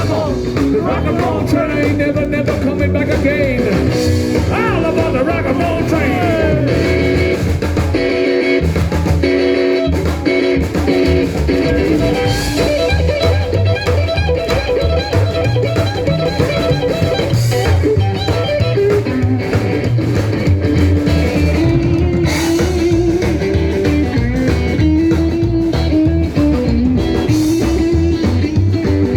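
Neo-rockabilly band playing live: an instrumental break with a guitar lead over bass and drums, following the chorus.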